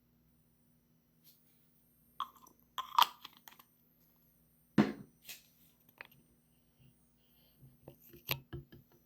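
Scattered clicks and knocks of objects being handled, with one dull thump about five seconds in, over a faint steady low hum.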